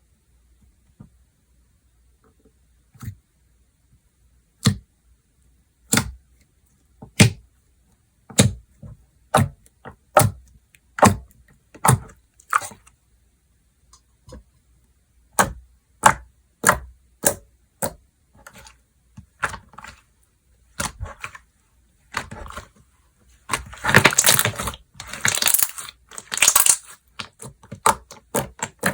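Slime being played with by hand, giving a series of sharp wet clicks and pops as air pockets are pressed out, one every half second or so, then a dense run of crackling squishes near the end.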